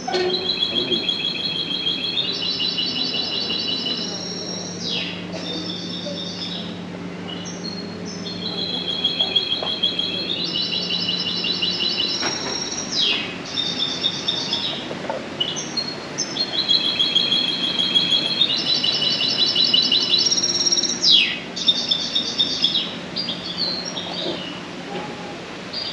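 Birds chirping and trilling in high, rapid phrases with quick downward sweeps. The same sequence of phrases comes round about every eight seconds, over a steady low hum.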